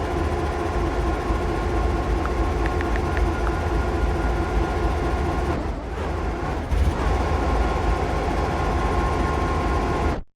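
Steady low rumble of a moving freight train, with a faint steady whine over it, just after its horn has stopped. The sound cuts off abruptly at the very end.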